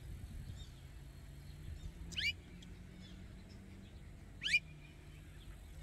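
A bird calling twice, about two and a half seconds apart, each call a short, quick upward sweep.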